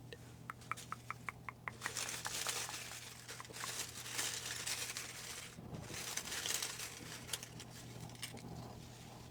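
Paper rustling and crinkling, a hand in a hat of folded paper name slips, drawing and unfolding the next one. A quick run of small ticks comes first, then two long stretches of rustling.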